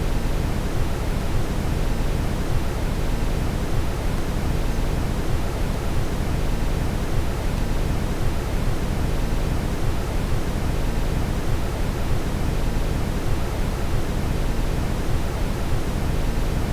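Steady brown noise: an even, unbroken hiss with most of its weight in the deep low end, thinning toward the top.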